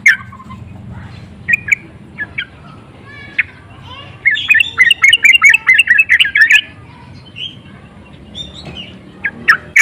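Yellow-vented bulbul (trucukan) singing: a few short scattered chirps, then a fast run of chattering notes for about two seconds near the middle, and more chirps near the end.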